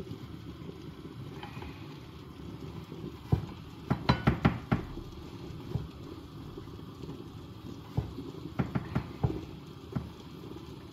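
Kitchen utensils knocking and clicking against cookware over a steady low hum: a quick cluster of sharp knocks about four seconds in and another a few seconds later.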